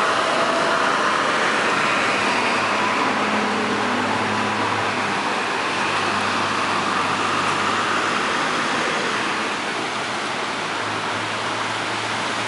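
Steady rain falling, with the hiss of traffic on a wet street and the low hum of a vehicle engine coming in a few seconds in and running under the rain for most of the time.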